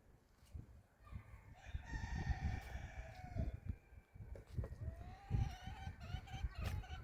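A rooster crowing: one long call that falls away at the end, then a second call a second or so later, over a low rumble.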